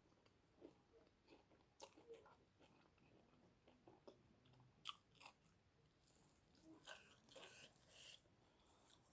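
Faint close-up chewing and mouth sounds of a person eating, with a few sharp clicks and crunches scattered through.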